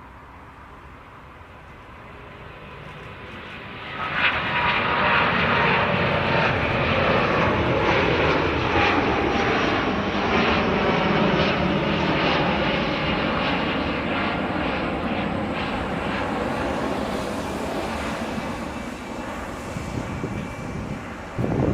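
Jet airliner engines: faint at first, then loud from about four seconds in, a dense rush with a high whine that slowly falls in pitch, easing a little near the end.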